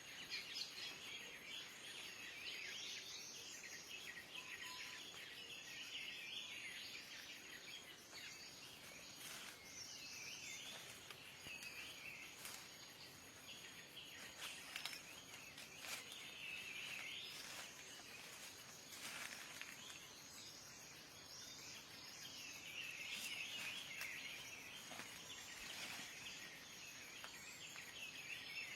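Faint, continuous chorus of small birds chirping and twittering, with a few light clicks.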